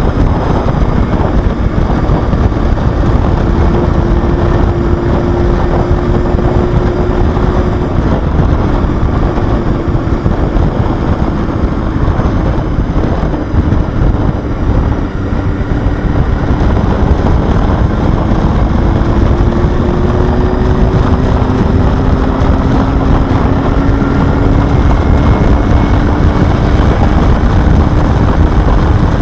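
Honda Hornet 250's inline-four engine running under way at a fairly steady speed, its note drifting slowly up and down, with wind rushing over the microphone.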